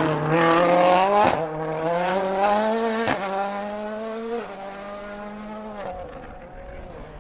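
Turbocharged four-cylinder engine of a World Rally Car at full throttle, accelerating away through the gears. The pitch climbs and then drops at two upshifts, each marked by a sharp crack, and the car fades into the distance.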